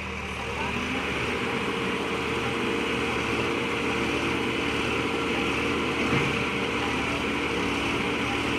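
Heavy vehicle's diesel engine running steadily, picking up slightly about a second in.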